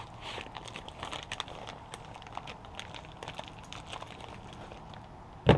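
Plastic sausage packaging crinkling and crackling in irregular small clicks as cheddar bratwursts are handled out of it. A single sharp knock near the end.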